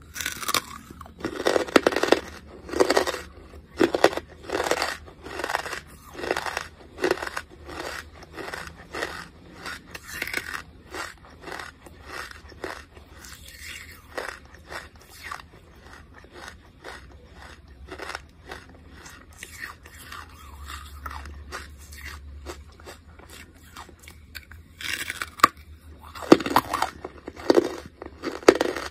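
Close-miked crunching and chewing of a brittle chunk of charcoal. Loud crisp crunches come about once a second at first, fade to softer chewing through the middle, and grow loud again near the end.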